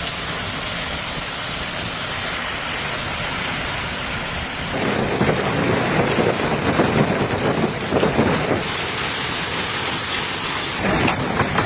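Thunderstorm downpour, heavy rain pouring steadily. The sound changes abruptly about five and nine seconds in, and sharp impacts patter through it near the end.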